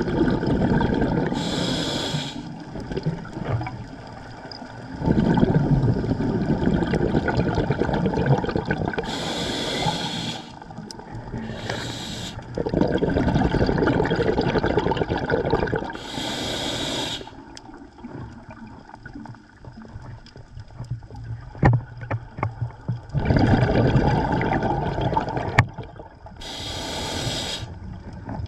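Scuba diver breathing through a regulator underwater: a short hiss on each inhale, then a long rush of exhaled bubbles, about six breath cycles.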